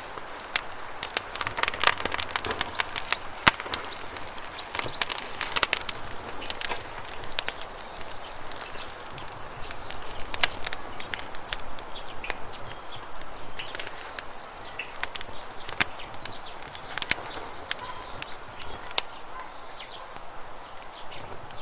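Campfire crackling with sharp pops over a steady rush of running river water; the crackling is densest in the first few seconds. Faint high bird chirps come in over the second half.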